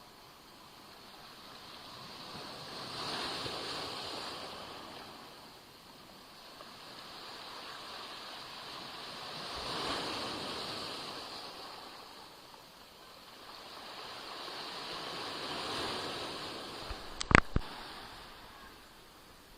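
Black Sea waves washing onto the shore: three slow surges of surf, about six seconds apart, each swelling and fading away. A short sharp knock comes a little before the end, louder than the surf.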